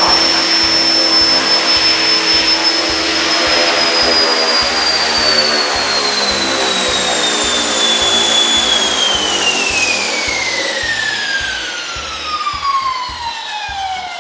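Align T-Rex 470L electric RC helicopter's brushless motor and drivetrain whining at high rotor speed, with the rotor blades rushing, then spooling down. The whine slides slowly lower in pitch, then drops much faster from a little past halfway, and the sound fades toward the end.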